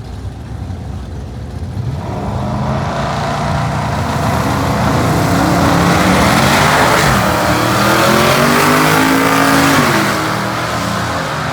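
Twin-turbo LS V8 in a Fox-body Mustang running at wide-open throttle down the drag strip, its note growing louder over the first few seconds and climbing in pitch, then easing off near the end.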